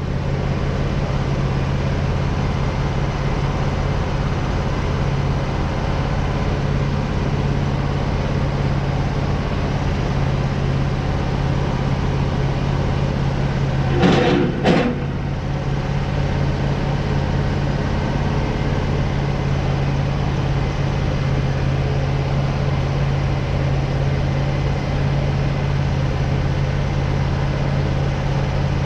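Tractor engine running steadily at a low, even speed. A brief louder burst comes about halfway through.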